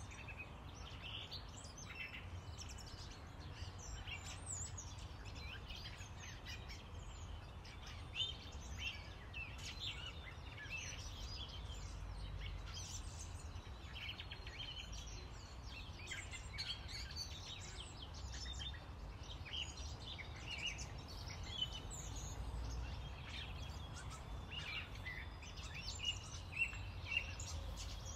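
Small birds chirping and twittering throughout, many short calls, over a low steady background rumble.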